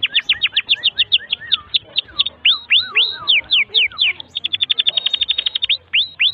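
Canary singing a long, fast song: quick trills of rapid notes sweeping down, a slower run of larger descending whistled notes around the middle, then another fast trill near the end.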